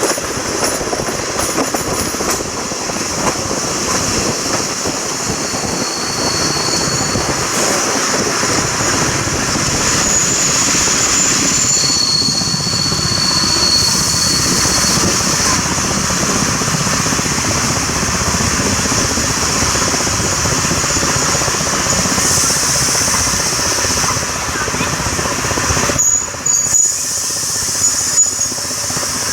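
A train running along the track: a steady rumble and rush of rolling noise, with thin, high wheel squeals that come and go several times.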